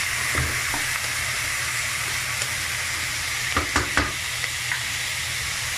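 Chopped raw banana and onion sizzling in hot coconut oil in a pan while being stirred with a wooden spatula. A steady hiss, with a few sharp clicks of the spatula against the pan about three and a half to four seconds in.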